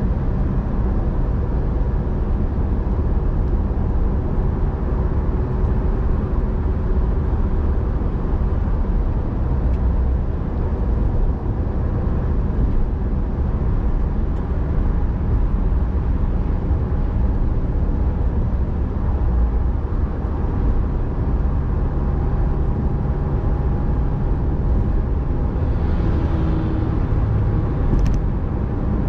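Car driving at a steady pace: continuous low engine and road rumble with faint steady engine tones, and a brief click about a second before the end.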